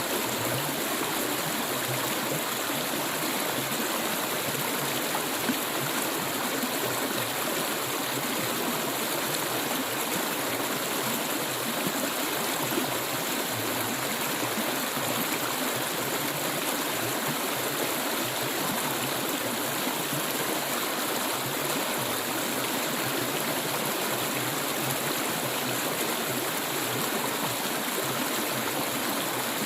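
Clear stream water flowing steadily, a continuous rushing and babbling.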